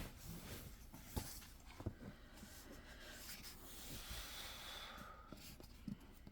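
Pen writing on paper: faint scratching, with a few soft knocks and taps.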